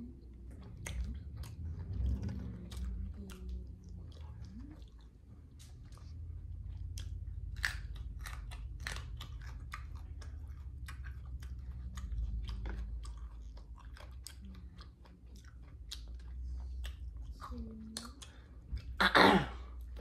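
Close-miked mouth sounds of a person chewing thin-crust pizza: wet, clicking chews throughout, with a louder crunching bite into the slice near the end.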